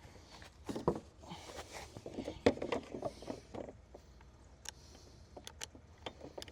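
Knocks and scrapes from handling boards and tools on a wooden shed deck, the loudest knock about two and a half seconds in, followed by a string of sharp, separate clicks.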